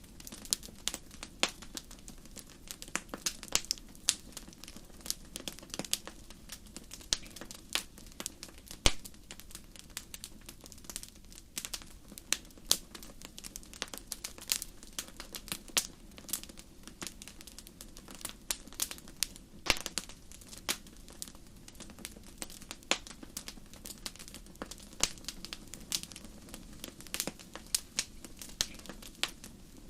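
Wood fire burning in a fireplace, crackling: many sharp, irregular pops and snaps over a soft, steady low rumble.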